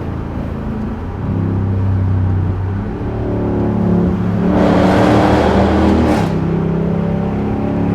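Straight-piped 5.7-litre Hemi V8 exhaust of a Dodge Durango R/T running under way, its drone stepping up and down in pitch a few times. A louder rush of noise swells in about halfway through and fades about two seconds later.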